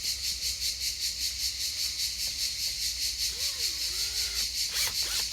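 High-pitched insect chirping in a steady rapid pulse, about eight chirps a second, with two short faint rising-and-falling calls near the middle.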